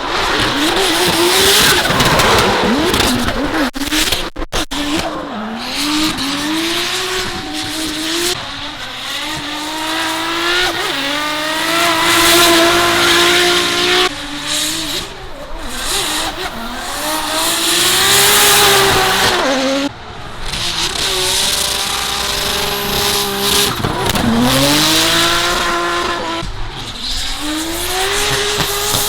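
Drift cars on a wet track, engines revving high, holding and dropping off in repeated surges as cars slide past one after another, over a steady hiss of tyre noise.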